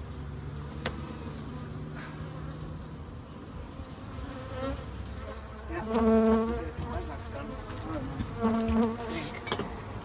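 Africanized honeybees buzzing around the microphone. Single bees fly close past twice, giving a loud steady buzz about six seconds in and again near the end.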